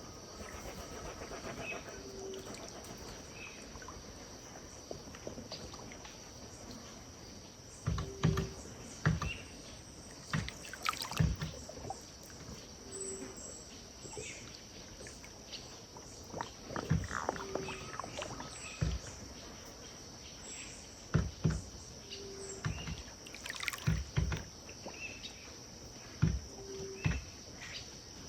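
River water lapping and sloshing against the bank in irregular splashes, over a steady high insect drone. A short low call repeats about every five seconds, with faint bird chirps.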